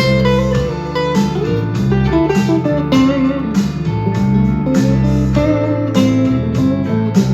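Harley Benton TE-62CC SFG Telecaster-style electric guitar played through an amp, picking a blues lead line with bent notes over a steady beat.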